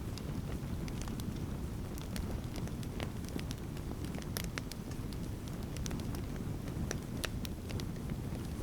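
Wood campfire burning outdoors: a steady low rumble of flame with sharp, irregular crackles and pops, several a second.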